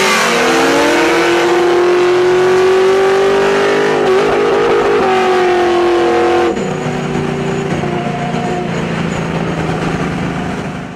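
Street-race engines at full throttle, from a nitrous-fed Camaro and a naturally aspirated Kawasaki ZX-10 sportbike. The engine note climbs slowly in pitch, with a quick gear change about four seconds in. About six and a half seconds in, the sound cuts to a quieter, lower, steadier engine drone.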